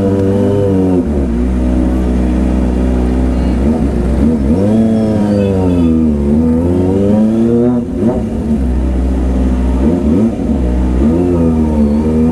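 Kawasaki ZX-25R's 250 cc inline-four engine running under way, its revs dropping and climbing again several times. A steady low rumble runs underneath.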